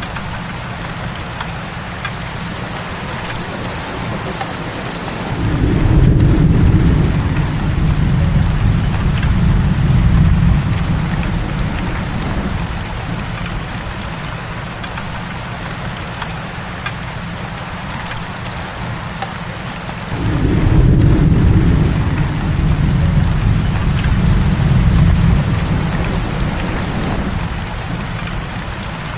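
Heavy rain falling steadily, with two long low rumbles of thunder, one starting about five seconds in and the other about twenty seconds in, each rolling on for around six seconds.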